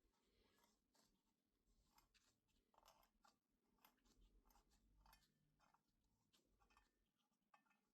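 Near silence with faint scattered small clicks and scratches.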